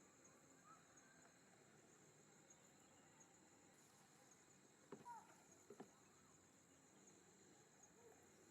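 Faint, steady high chirping of crickets, with a few soft clicks about five to six seconds in.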